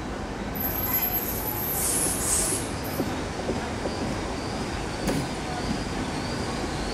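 Great Western Railway Class 800 intercity train running slowly into a curved platform. A high-pitched squeal from the wheels lasts about two seconds, and a few sharp clicks follow as the wheels cross rail joints.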